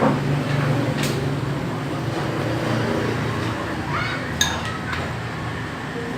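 A few sharp clinks of a utensil against a pan or dish, over a steady low hum.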